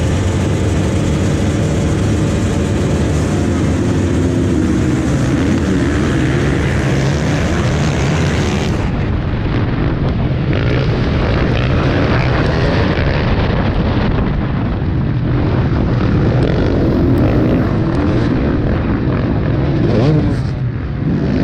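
Small off-road vehicle engine running loudly and steadily, close to the microphone; the sound changes abruptly about nine seconds in.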